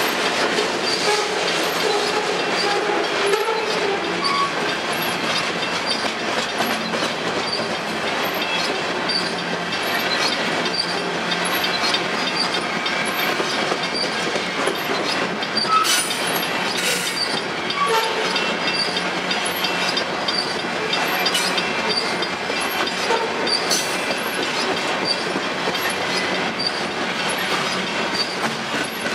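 Covered hopper cars of a potash freight train rolling past on steel rails: a steady rumble of wheels with clickety-clack over the rail joints and scattered short, high wheel squeaks.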